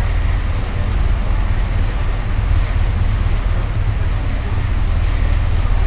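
Steady rumble and rush aboard a moving ferry: wind buffeting the microphone over the noise of the ship's engines and its churning wake.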